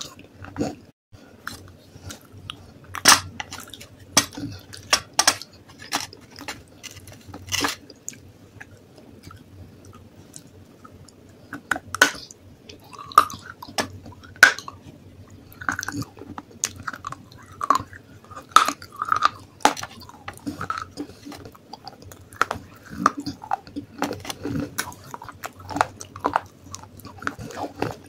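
Close-up crunching and chewing of pieces of baked clay pot: sharp, irregular bites and cracks with softer grinding chews between, and a quieter spell about a third of the way in.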